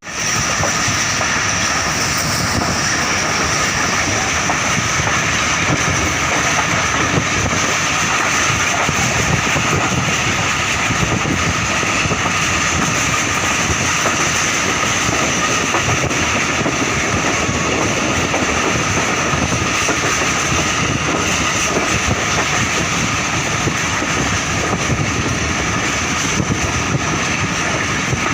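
Passenger train running at speed: a steady rumble and rushing noise with a faint high whine over it.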